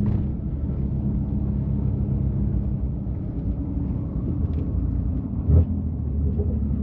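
Twin-turbo inline-six of a BMW F80 M3 running at a steady, low-rpm drone through a catless downpipe and open-valve exhaust, with road and tyre noise. A brief louder low thump comes about five and a half seconds in.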